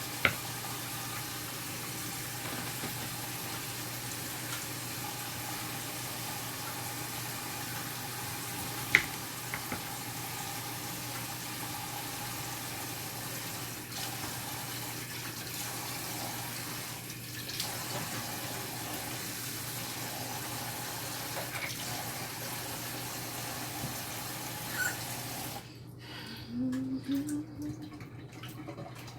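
Kitchen sink tap running steadily, with a few sharp clinks. The water shuts off near the end, followed by a few short knocks.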